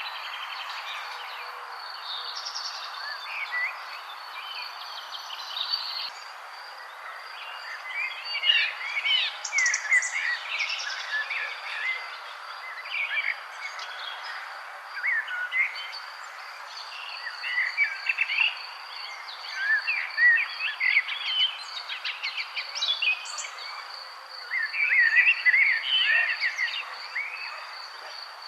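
Several songbirds chirping and singing in quick bursts, busier from about a third of the way in, over a steady, high, pulsing insect trill and a steady background hiss.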